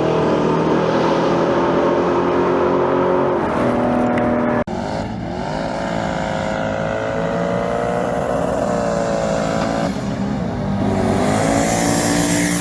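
A 5.3-litre V8 race truck engine at full throttle. The pitch climbs and drops back twice, about 4.5 and 10 seconds in, as it shifts up through the gears.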